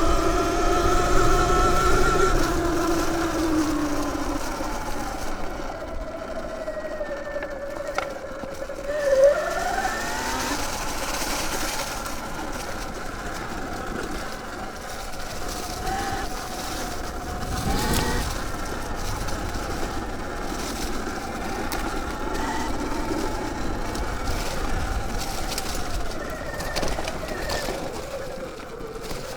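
Sur Ron Light Bee electric dirt bike's motor whining as it is ridden off-road, the pitch sliding down and up with throttle and speed. There is a sharp thump about nine seconds in and another around eighteen seconds.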